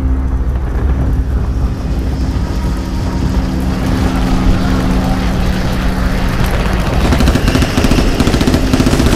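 Loud battle sound effects from a war film: a dense, steady mechanical din that turns into a rapid clatter about seven seconds in.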